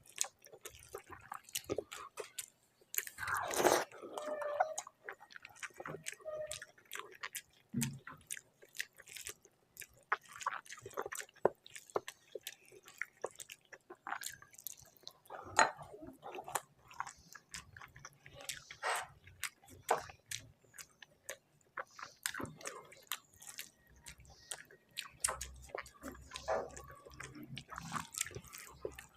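Close-miked chewing and biting: wet mouth smacks and many small clicks of a person eating a rice-and-curry meal, with a louder bite about three and a half seconds in.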